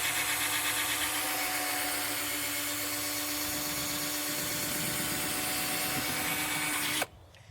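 Cordless drill running at full speed, spinning a polishing pad with paste against a plastic headlight lens. It is a steady hum that stops abruptly about seven seconds in, as the trigger is released.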